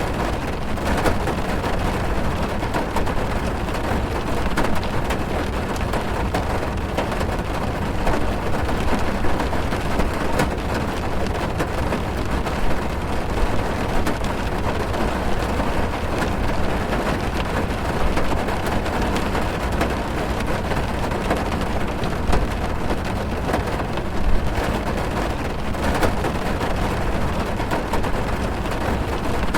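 Heavy rain drumming on a car's roof and windows, heard from inside the cabin: a dense steady patter with a deep low rumble and scattered louder drops.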